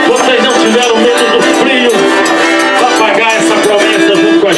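Folia de Reis folk music: an eight-bass button accordion playing sustained chords and melody, with voices singing along.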